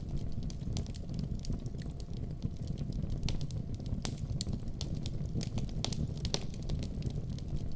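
Fireplace fire crackling, with irregular sharp pops over a steady low rumble of flames.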